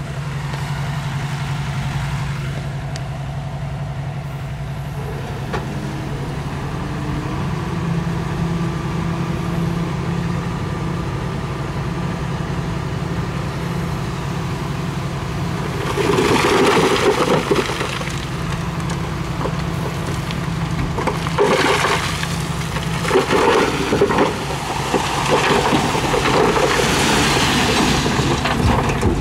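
Mini bulldozer's diesel engine running steadily. From about halfway, repeated loud bursts of crunching and scraping break in, as the blade pushes loose stone.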